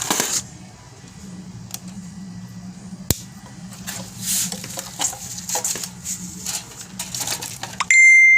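Clicks and rattles of parts being handled over a low steady hum, with one sharp click about three seconds in. Near the end a loud, steady high-pitched beep cuts in, with everything else dropping out under it, and runs for about a second: an edited-in bleep tone.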